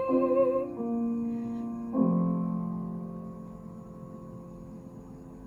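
The singer's last held note, with vibrato, ends under a second in, and the piano accompaniment closes the song: a chord change, then a final chord struck about two seconds in that rings and slowly fades.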